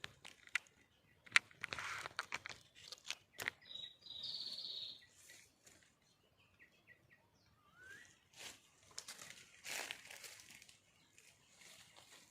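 Faint rustling and crackling with scattered clicks, a few short bird chirps, and a brief buzzing call about four seconds in.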